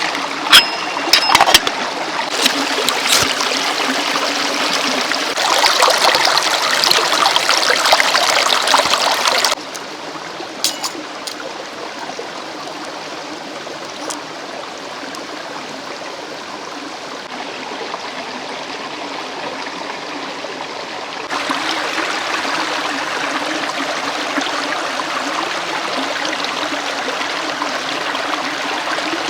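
Mountain stream rushing steadily, louder from about five to nine seconds in and then softer, with a few sharp knocks in the first three seconds.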